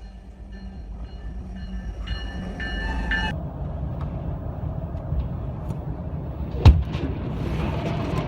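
Train passing with a low rumble that builds, its horn sounding in a held chord for the first three seconds or so. A single loud bang comes about two thirds of the way in.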